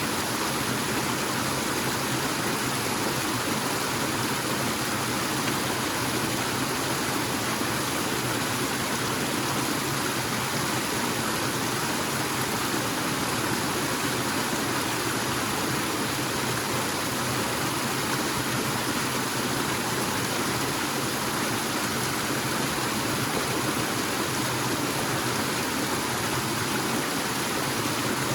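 Waterfall pouring and splashing: a steady, unbroken rush of falling water.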